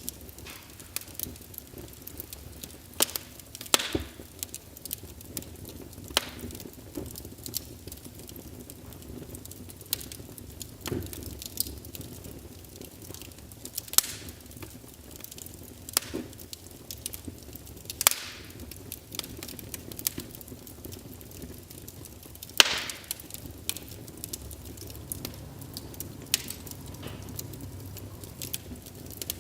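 Logs burning in a fireplace, crackling with irregular sharp pops over a low steady rumble. The loudest pop comes about three-quarters of the way through.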